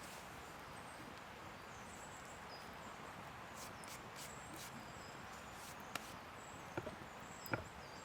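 Quiet outdoor ambience: a steady soft hiss with faint high chirps, and three sharp knocks or snaps in the last two seconds, the last one the loudest.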